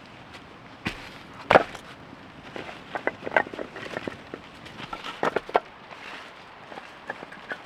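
Irregular knocks and clacks, a few at a time, the loudest about one and a half seconds in, over a faint steady hiss.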